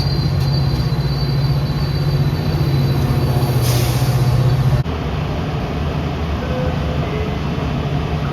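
Train on the rails with a thin, high wheel squeal that fades out over the first few seconds, over a steady low hum and rumble. About five seconds in, the hum stops abruptly and a lower, quieter rumble carries on.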